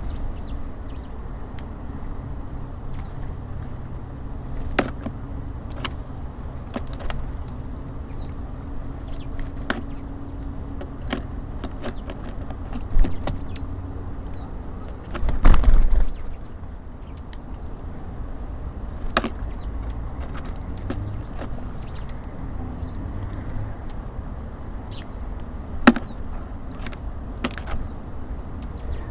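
Steady low hum of city traffic with scattered sharp taps and clicks of small birds at a bird feeder, and faint short chirps. One louder burst of noise comes about halfway through.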